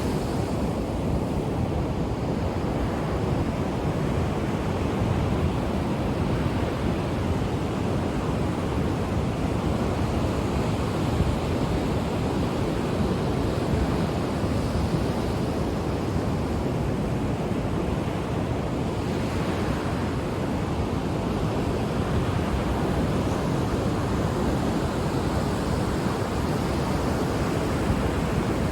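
Ocean surf washing onto a beach: a steady low rush of breaking waves, with a brighter swell of a wave breaking about 19 seconds in and again near the end.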